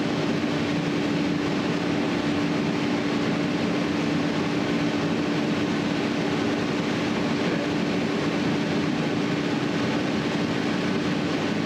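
A steady mechanical hum, one constant tone over an even hiss, with no change in level.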